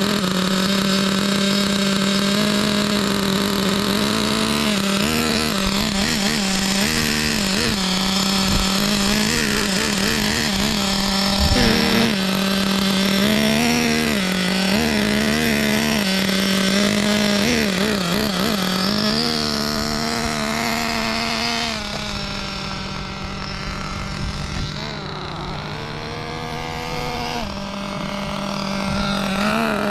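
SH PT21 nitro engine in a Kyosho RC buggy running during its break-in, holding a fairly steady low-speed tone with brief dips and wobbles in pitch now and then.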